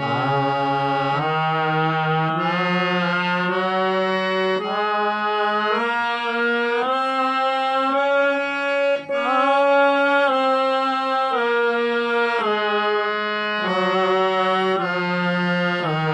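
Harmonium playing an alankar scale exercise, held notes stepping to a new pitch about once a second, with a sung 'aa' (aakar) on the same notes for voice training.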